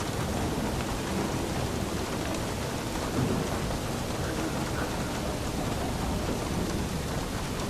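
Steady rain falling, with a low rumble of thunder under it and a slight swell about three seconds in.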